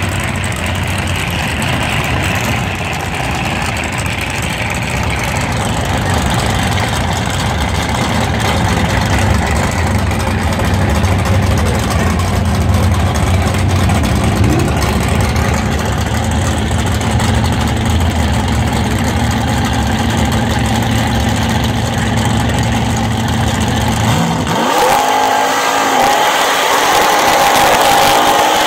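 Ford drag cars' engines idling at the start line. Near the end one engine revs up high and holds there, the Torino's tyres spinning in a burnout.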